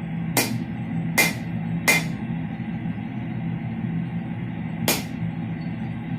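Four sharp hammer blows on steel at an anvil, irregularly spaced with a longer gap before the last, each with a brief metallic ring, over background music.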